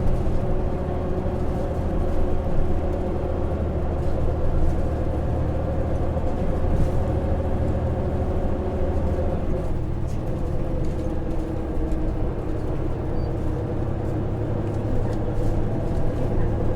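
Running sound inside a Hino PJ-KV234L1 city bus under way: its 6HK1 inline-six diesel engine drones steadily over road noise, and its pitch shifts about ten seconds in.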